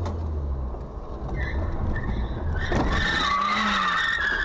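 Car tyres squealing in a skid, a loud high squeal starting about halfway through and lasting about two seconds, over the low rumble of a car on the road.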